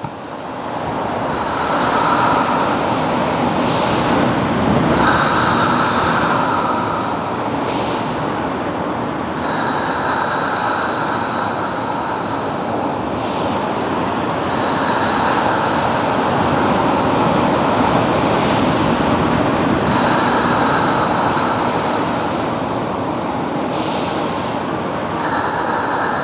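Ocean surf breaking on a beach: a continuous rushing wash that swells and eases every few seconds, with a sharper hiss on some of the swells.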